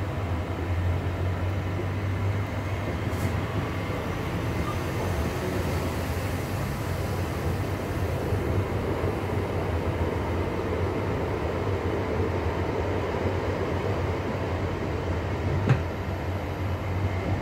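Cabin noise of a Class 323 electric multiple unit running at speed: a steady low rumble from the running gear, with a single sharp knock near the end.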